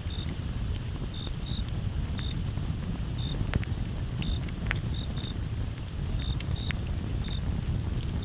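Wood campfire crackling, with scattered sharp pops over a low rumble, the loudest pop about three and a half seconds in. Crickets chirp throughout in short, high chirps spaced irregularly, over a steady high hiss.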